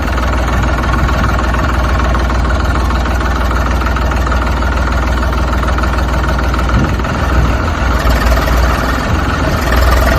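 Heavy engine running steadily, its low rumble turning uneven and pulsing about seven seconds in.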